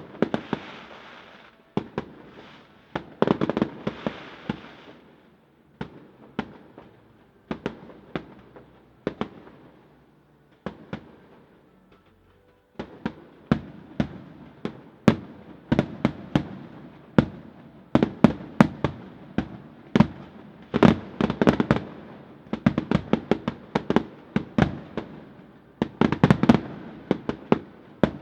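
Firework display: a string of sharp bangs with crackling between them, spaced out at first, then a dense, rapid barrage of bangs from about halfway through.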